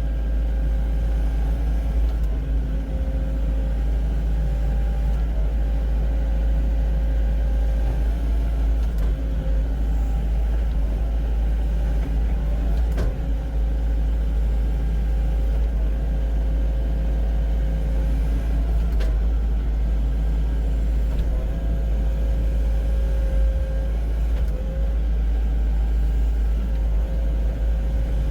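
Excavator's diesel engine running steadily with a deep rumble and a steady whine over it, while the machine pulls soil toward itself in straight grading passes.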